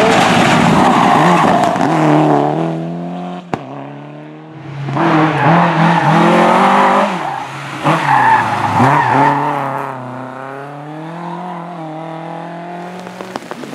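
Rally car engine revving hard, its pitch climbing and dropping with throttle and gear changes, with tyres squealing. It comes in loud bursts at the start and again about five and eight seconds in, then runs steadier and quieter towards the end.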